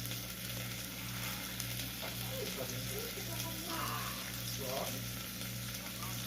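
Food frying in a pan, a steady sizzle, over a low steady hum, with a faint voice in the background for a few seconds in the middle.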